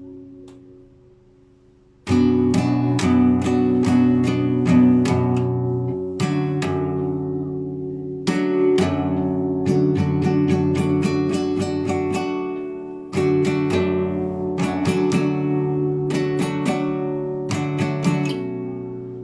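Solo classical guitar improvising in arpeggios. A chord rings out and fades, and about two seconds in the plucked notes and ringing chords start again, quickening in the middle and fading away near the end.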